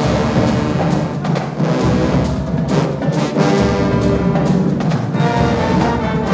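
Marching band playing: a full brass section holding loud chords over a drumline's repeated strikes.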